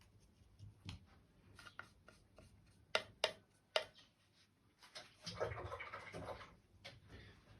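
A few sharp clicks of a paintbrush tapping against a palette, then about a second of rubbing and swishing as pigment is mixed with the brush.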